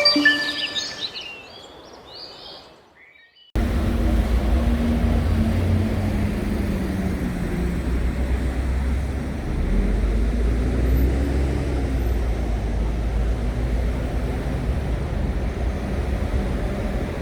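A chime jingle rings and dies away over the first few seconds. Then, after a sudden cut, there is steady outdoor city ambience: a constant low rumble of street traffic.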